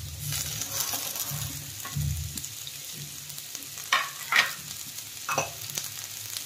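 Cubed potato and carrot frying in hot mustard oil in an aluminium kadhai, a steady sizzle. A few brief sharp sounds stand out about four to five seconds in.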